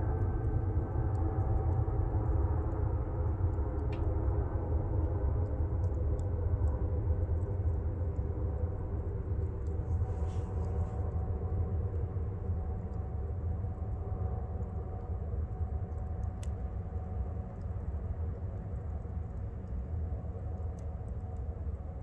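Airplane passing overhead: a steady low rumble that slowly fades. A wood fire gives a few sharp crackles.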